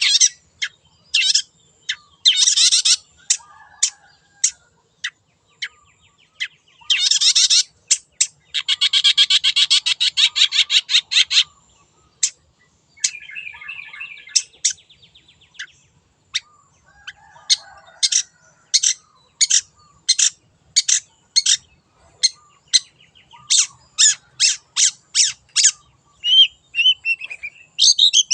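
Long-tailed shrike (cendet) singing: a varied string of sharp, harsh notes. It includes a fast rattling trill a third of the way in and a run of evenly spaced sharp calls, about two a second, in the second half.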